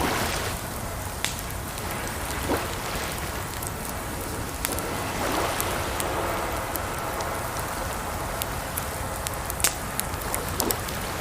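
Campfire crackling with scattered sharp pops, over a steady wash of running water with a few brief gurgles.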